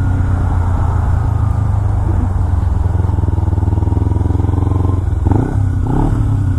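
Motorcycle engine running steadily at low road speed, a constant low hum with road and wind noise.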